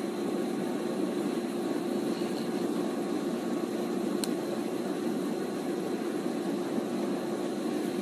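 A steady mechanical hum that does not change, with one short faint click about four seconds in.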